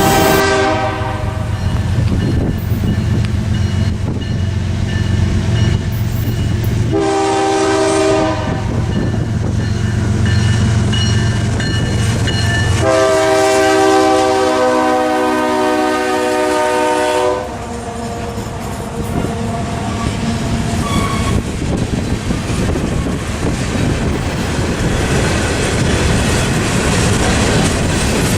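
Passing train with its diesel locomotive's chime horn: a blast trailing off at the start, a short blast about seven seconds in, then a long blast of about four seconds. A heavy engine drone runs under the first part and drops away about thirteen seconds in, leaving the rolling clatter of the train's cars.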